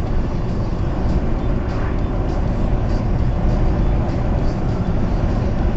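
Steady road and engine noise inside a moving car's cabin, heaviest in the low rumble and unchanging throughout.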